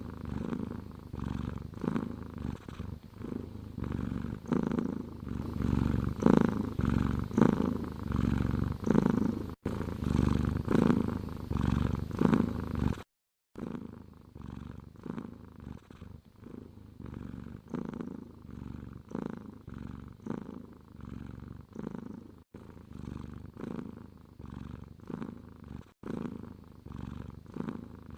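Domestic cat purring close up, a low rumble that swells and fades with each breath. It breaks off briefly about thirteen seconds in and comes back quieter.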